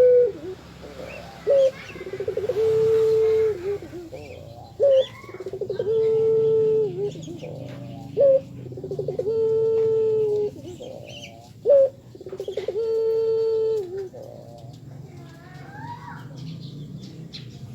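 Puter dove cooing: four repeated calls about three and a half seconds apart, each a short high note, a quick rolling run, then a long held coo that drops at the end. Faint chirps of smaller birds follow near the end.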